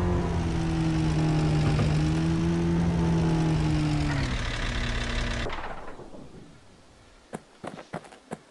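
A vehicle engine running steadily, dropping slightly in pitch about four seconds in and then shut off about a second later. A few sharp clicks follow near the end.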